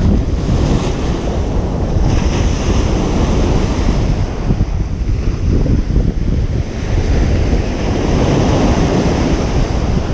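Ocean surf breaking and washing up a beach in a continuous rush of noise that swells and eases, building again toward the end. Wind buffets the microphone, adding a fluttering low rumble.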